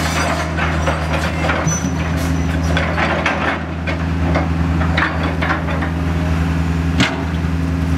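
Building demolition: a heavy machine's diesel engine runs steadily under a stream of cracking, crunching and knocking as the structure breaks apart, with one sharp, loud crack about seven seconds in.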